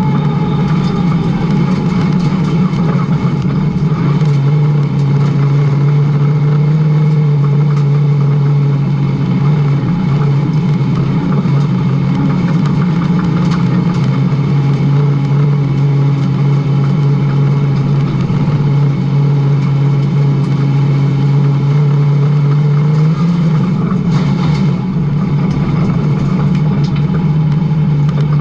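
Late model stock car's V8 engine running hard on track at a steady high speed, its note dipping slightly and rising again a couple of times.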